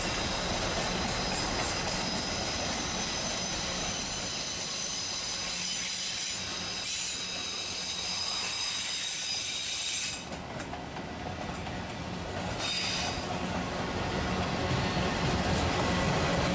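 Train rolling past, its wheels squealing in several steady high tones over the rumble of the cars. The sound dips briefly about ten seconds in, then builds again.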